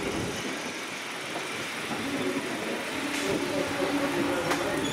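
Railway passenger coaches rolling slowly along the platform with a steady rumble, the wheels clicking sharply twice over rail joints late on.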